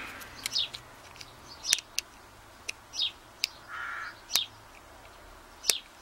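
A bird chirping over and over, short high chirps sliding downward roughly every second and a half, with a couple of small sharp clicks.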